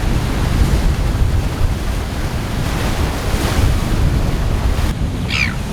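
Wind buffeting the microphone over the steady wash of sea surf, with a brief high falling squeak near the end.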